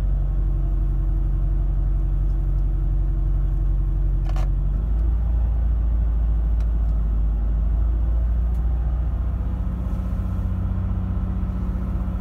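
2006 Chevy Equinox's 3.4-litre V6 idling cold just after starting at −8 °F, misfiring and not running on all cylinders. The idle note shifts about five seconds in, just after a single light click.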